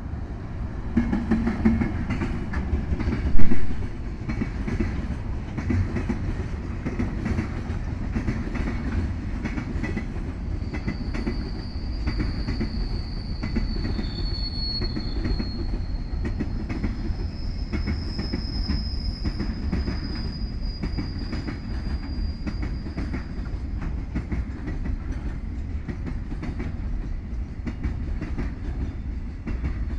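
A freight train of container flatcars hauled by an EF210 electric locomotive rolls past at speed, with a steady rumble and the rapid click of wheels over rail joints. There is one loud thump about three seconds in. A high wheel squeal rises over the rumble from about ten seconds in and fades out around twenty-three seconds.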